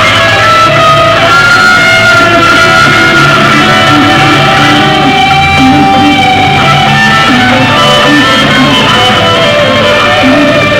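Loud rock music led by guitar, with long held notes over a steady band accompaniment.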